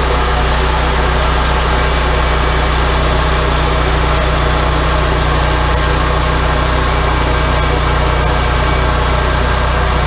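Wood-Mizer LT40 hydraulic sawmill's engine running steadily with an even, unchanging hum.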